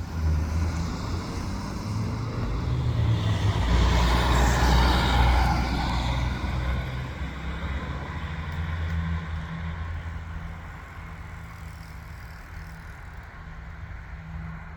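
A train passing by: a steady low drone with a broad hiss on top that swells to its loudest about four to five seconds in, then fades away.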